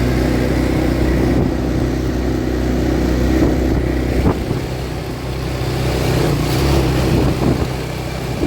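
ATV engine running under way, a steady low drone with a single knock about four seconds in, where the engine note shifts.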